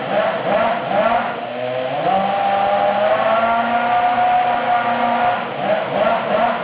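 Toyota Formula One 2.4-litre V8 engine being revved: quick repeated blips of the throttle, then held at a slowly climbing pitch for about three seconds from about two seconds in, then blipped again near the end.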